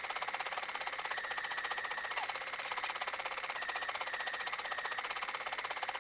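Silver Viscount embroidery sewing machine stitching out an embroidery pattern: a rapid, even run of needle strokes with a high motor whine that comes and goes.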